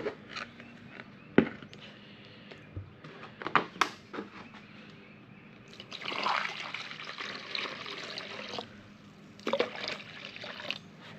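Water draining out of a race car's radiator cooling system: a steady pour lasting about two and a half seconds past the middle, with scattered clicks and knocks of handling before and after it.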